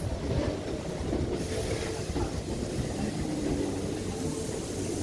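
Kintetsu electric train running on the station tracks: a steady rumble of wheels on rail with a low hum over it.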